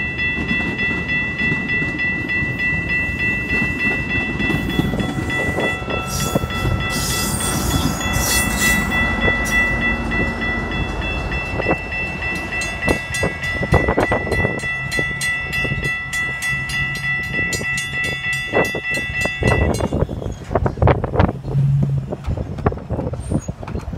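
Commuter train rumbling over a grade crossing while the crossing bells ring steadily. The bells stop about 20 seconds in, followed by a few sharp knocks.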